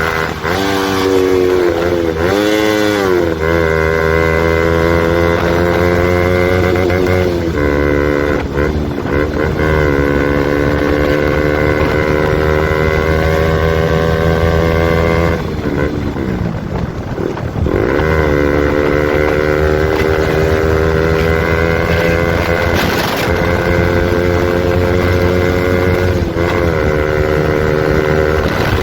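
KTM RC 200's single-cylinder engine running loud through an Akrapovic exhaust with the dB killer removed, under way. The revs dip and climb again several times, with a deeper drop and recovery about halfway through.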